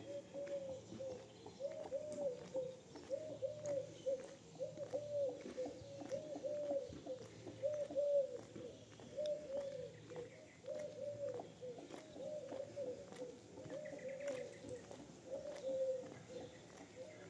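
A dove cooing over and over: a string of short, low, arched notes repeating about once a second.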